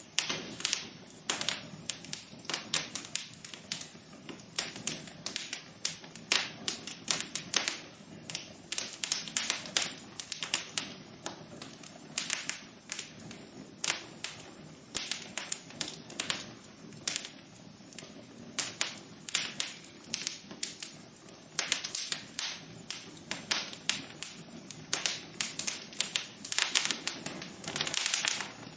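Wood fire in a fireplace crackling: irregular sharp pops and snaps, many a second, over a steady low hiss of burning.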